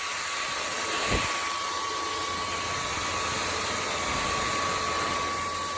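ElecKeys K10 cordless stick vacuum cleaner's motor running steadily: an even rush of air with a constant whine, and a brief low bump about a second in.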